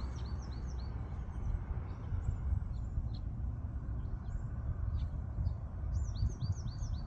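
Small birds chirping in quick runs of short, curved chirps, one run at the start and another near the end, with scattered single chirps between, over a steady low rumble.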